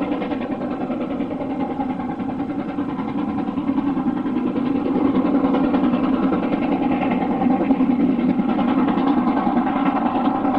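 LMS Black 5 steam locomotive working a train, its exhaust beats coming so fast they run together into a steady rhythmic drumming, a little louder in the second half.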